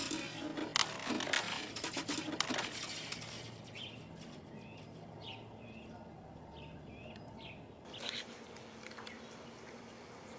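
A few sharp clicks and scratches in the first two or three seconds, then several short bird chirps over a quiet outdoor background.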